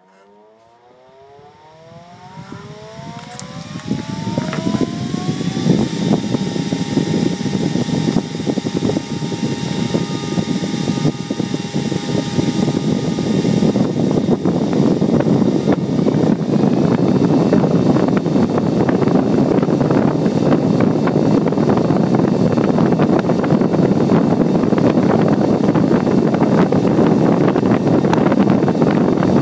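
Four Delta AFC0912DE 92 mm high-speed cooling fans spinning up from standstill, their whine rising in pitch over the first few seconds, then running at full speed, about 6000 RPM, with a loud steady rush of air and a faint whine over it.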